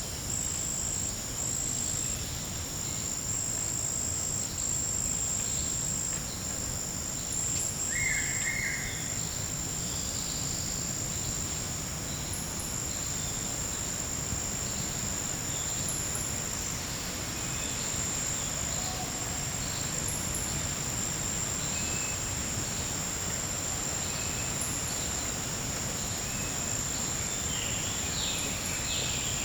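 Forest insects keeping up a steady, unbroken high-pitched trill, over a low background rumble. A few short calls from other animals stand out: one brief call about eight seconds in and a quick run of notes near the end.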